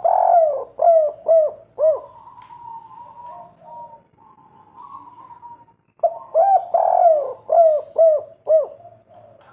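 Spotted dove (derkuku) of the 'kuk 3' song type cooing: two phrases, each a quick run of rounded, arching coo notes, the first already under way at the start and the second about six seconds in. A fainter, more even note sits in the gap between them.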